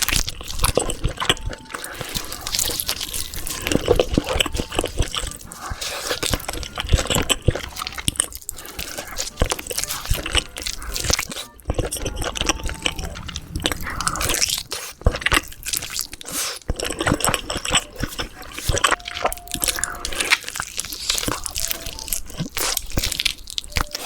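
Close-miked eating sounds: a person biting and chewing spicy cheesy Jamaican chicken, with a dense run of sharp crunches and wet chewing.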